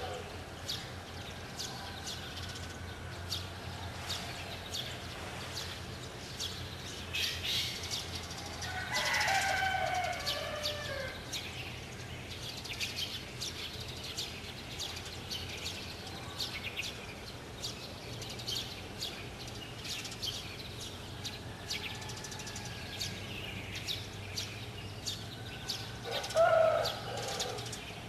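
Small birds chirping in a string of short, high chirps, with a louder, longer domestic fowl call falling in pitch about nine seconds in and a short fowl call near the end, over a faint steady low hum.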